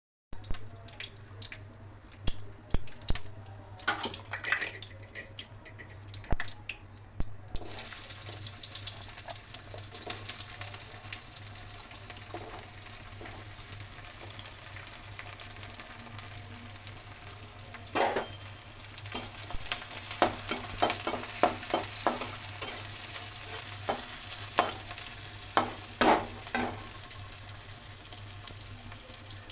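Sliced onions and green chilies frying in hot oil in a kadai. A steady sizzle starts about a quarter of the way in, with the clicks and scrapes of a spatula stirring, which come more often in the second half. A steady low hum runs underneath.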